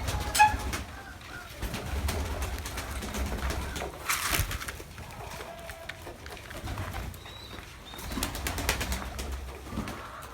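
Domestic pigeons cooing, with scattered sharp clicks and a brief rustling burst about four seconds in.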